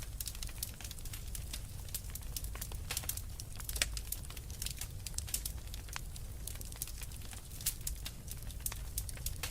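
Wood fire crackling in a fireplace: many quick, irregular pops and snaps, with a couple of louder ones about four and eight seconds in, over a low steady rumble.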